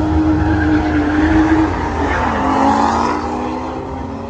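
Cars racing off the line in a drag race, engines held at high revs with tyre noise. The engine note drops in pitch partway through and settles lower.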